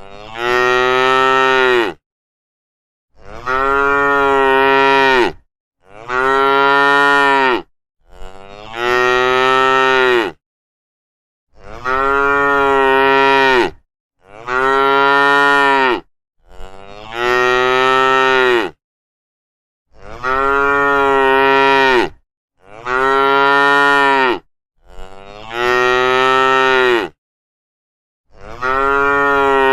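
Cow mooing over and over: about eleven long moos of roughly two seconds each, every two to three seconds. Each rises in pitch at the start, then holds steady, with dead silence between calls.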